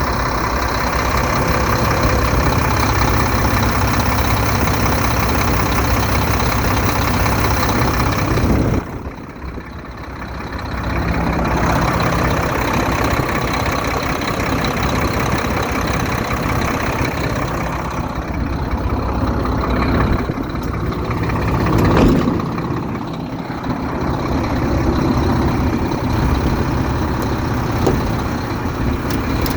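Diesel engine of a 2008 Mack dump truck running steadily. The sound drops off suddenly about nine seconds in, then comes back up over the next couple of seconds.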